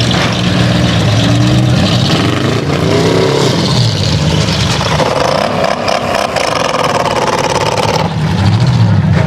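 Several race car engines running and revving together over a noisy background. From about five seconds in, a higher, wavering engine note rises above the rest for about three seconds.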